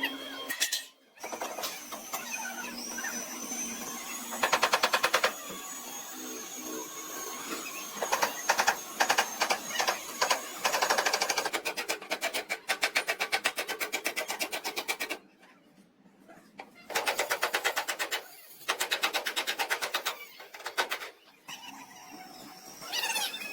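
A power tool working in bursts, each a few seconds long, with a fast, even rattle of strikes and short pauses between bursts.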